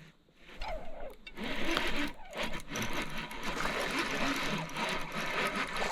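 Fishing reel cranked fast and steadily, retrieving a square-bill crankbait. The whirring starts about a second and a half in, after a short quiet stretch.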